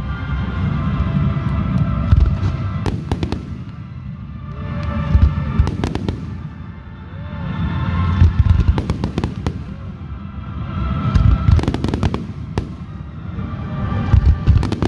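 Fireworks display: a string of sharp bangs and crackling bursts over a deep booming rumble that swells and fades in waves every few seconds. Music plays along with it.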